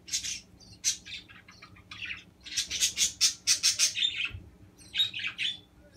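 Budgerigar chicks giving raspy, high-pitched cheeping calls in short bursts, with a fast run of about eight calls in the middle.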